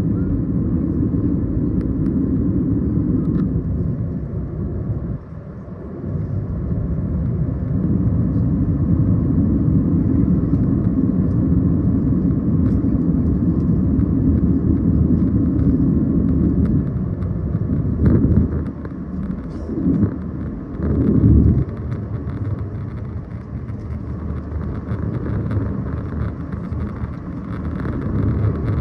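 Steady low rumble of a moving vehicle, with a brief drop about five seconds in and a few short louder swells about two-thirds of the way through.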